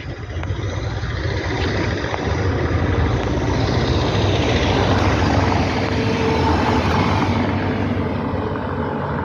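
A motor running close by, with a low steady hum under a noisy rush, growing louder over the first few seconds and easing a little near the end.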